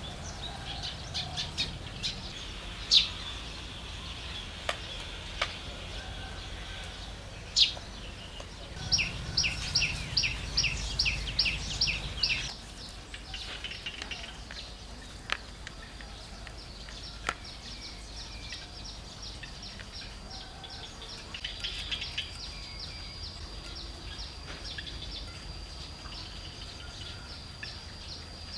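Wild birds chirping and calling in the background, with single sharp calls and, about nine seconds in, a quick run of a dozen repeated chirps. A thin steady high tone runs on under them later.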